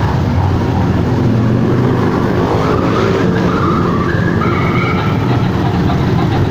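Several motorcycle engines running loud and steady as a group of motorcycles rides past, with a few short higher-pitched tones in the middle.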